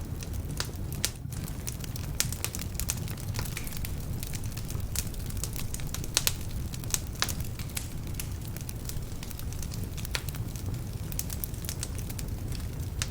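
Wood fire burning in a fireplace: a steady low rumble of flames with irregular sharp crackles and pops from the logs, a few louder pops among them; some of the logs are damp, which adds to the crackling.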